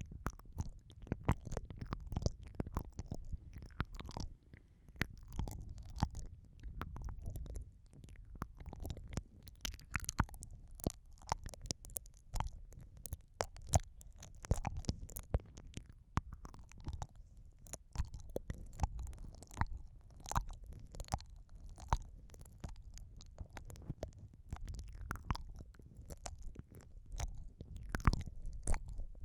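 Close-miked wet mouth sounds pressed against an ear-shaped microphone: many quick, irregular wet clicks, smacks and licks over a continuous low, muffled rumble.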